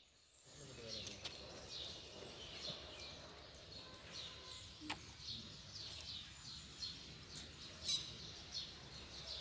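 Small birds chirping: a steady run of short, high, down-sliding chirps, several a second, over faint outdoor background noise, with a couple of sharp clicks.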